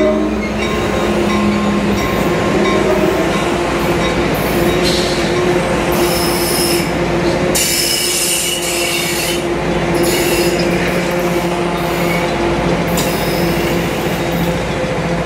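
Coaster commuter train's bilevel passenger cars rolling past, with a steady rumble and wheels squealing high-pitched several times.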